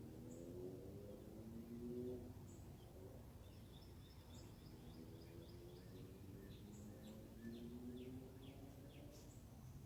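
Faint birdsong: a run of short, high chirps, then several quick down-slurred notes near the end, over a low, slowly wavering background hum.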